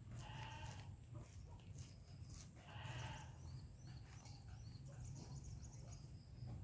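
BMW E46 318i's N42B20 four-cylinder engine idling faintly with a misfire, a steady low hum. Two short bleating animal calls, about half a second and three seconds in, stand out above it.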